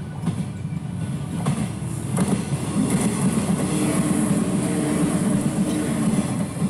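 Electric train approaching and passing close by. A low rumble of wheels and motors grows loud about two seconds in and stays loud as the cars go past, with a steady low hum and a few clacks of wheels over the rails.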